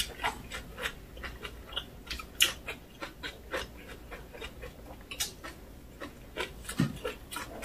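Close-miked chewing of aged-kimchi rice wraps: irregular wet mouth clicks and smacks, a few each second.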